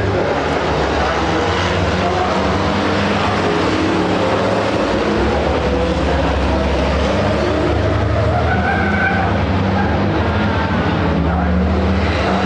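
Racing trucks' diesel engines running hard on the circuit: a steady, loud engine drone, with a brief higher squeal about eight seconds in.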